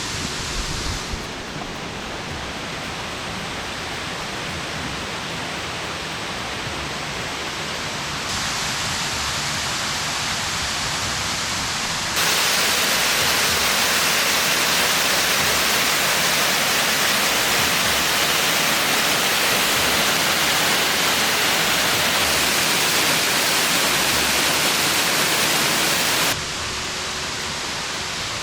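Waterfall rushing, a steady roar of falling water. The level jumps abruptly several times and is loudest through the middle.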